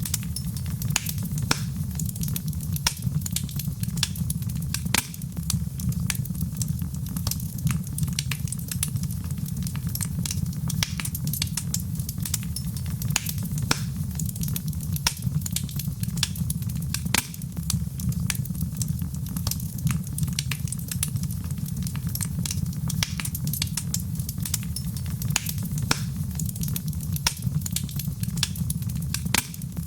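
Wood fire burning in a fireplace, crackling with frequent sharp pops over a steady low rumble of flame.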